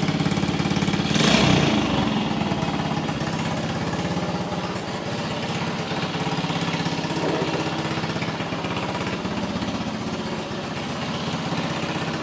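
1964 Honda C200's small single-cylinder four-stroke engine idling steadily with even firing pulses, with a brief louder burst about a second in. It is running smoothly now that a clogged pilot jet has been cleared, which the owner takes to have been the cause of its refusal to run.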